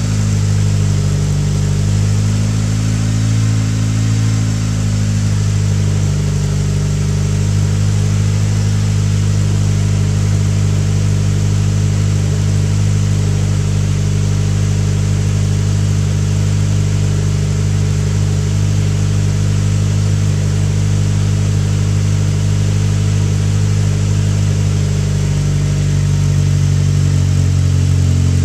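Car engine idling steadily through a new exhaust, with a slight rise and fall in engine speed a few seconds in.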